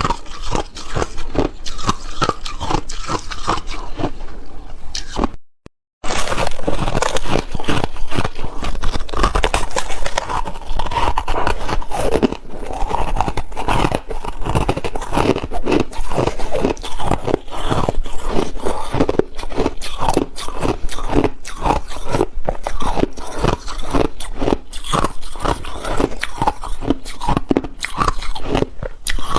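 A person biting and chewing ice, loud crunches following one another in a rapid, uneven string. The sound drops out completely for about half a second just over five seconds in, then the crunching resumes.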